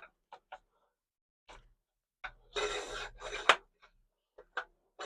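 Hands and tools working in a cramped engine bay: a few scattered sharp clicks and knocks, with two short scraping rasps about two and a half seconds in, the second ending in a sharp click.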